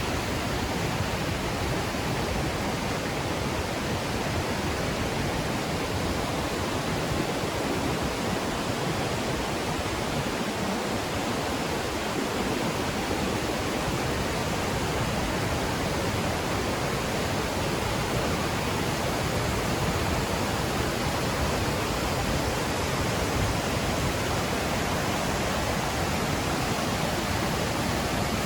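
Steady, loud rushing of water, an even noise that does not let up.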